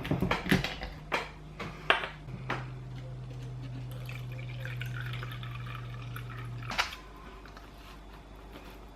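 Vinegar poured from a bottle into a small cling-film pocket over a cup, a trickling pour lasting a few seconds that stops with a knock. Before it come a few sharp clicks of the bottle being handled.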